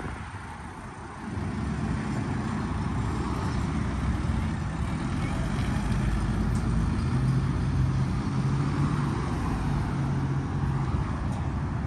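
A motor vehicle's engine running close by, getting louder about a second in, with a steady low hum in its sound from about seven to eleven seconds.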